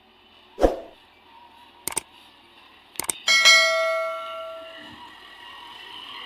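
Steel tractor wheel rim being struck in the workshop: a dull thud, a couple of quick sharp clinks, then a hard metal strike that rings out with bell-like tones, fading over about two seconds.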